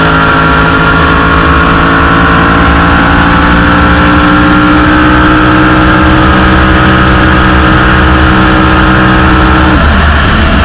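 Drag boat's engine running loud at a steady, held pitch, its note dropping abruptly near the end.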